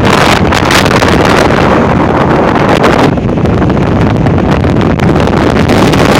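Strong, gusting windstorm wind buffeting the microphone, loud and continuous, easing slightly in the upper range for a couple of seconds about three seconds in.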